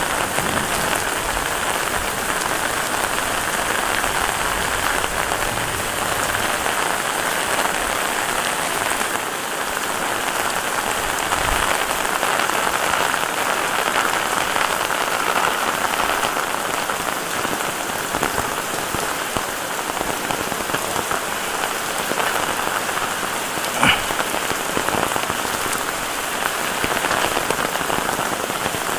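Heavy rain falling steadily, an even dense patter of drops. One sharp knock stands out late on.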